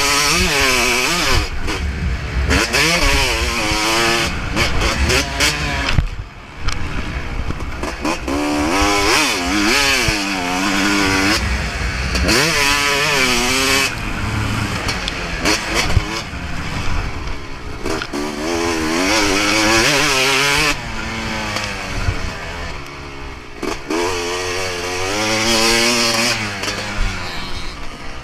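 Motocross bike engine being ridden hard, its revs climbing and dropping over and over as the throttle is opened and shut. The throttle is briefly chopped about six seconds in, and there is a quieter, steadier stretch in the last third.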